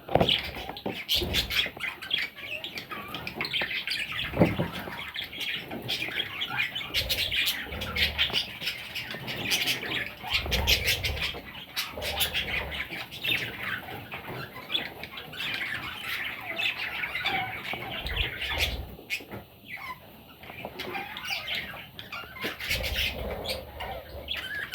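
Parrot chicks squawking and chirping continuously in a dense chatter, with scattered short clicks and a few low bumps.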